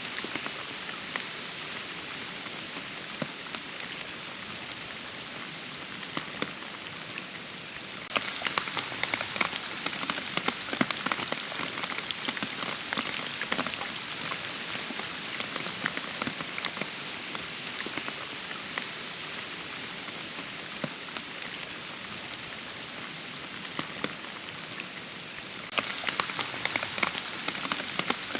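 Steady rain falling, with many individual drops heard hitting surfaces. It gets suddenly heavier about eight seconds in, eases a little later on, and turns heavier again shortly before the end.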